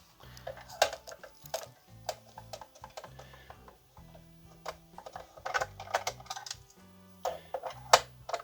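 Screwdriver work on a soldering station's case: irregular sharp clicks and small clatters as screws are turned out and handled, the loudest near the end. Quiet background music underneath.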